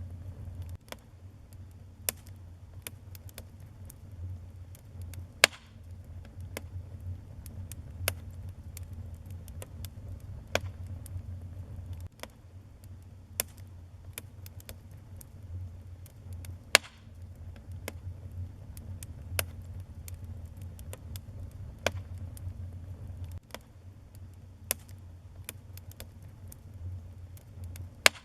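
Wood fire burning in a fireplace: irregular crackles and sharp pops over a steady low rumble of the flames, with a few much louder snaps.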